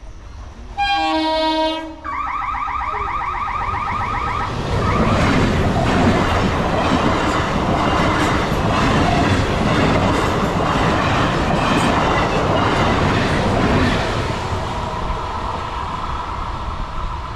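Horn of an old-model electric multiple unit (EMU) local train, sounded twice in the first four seconds, the second blast wavering in pitch. Then the train passes close at speed, with a loud rush and a rhythmic clatter of its wheels over the rail joints that fades away near the end.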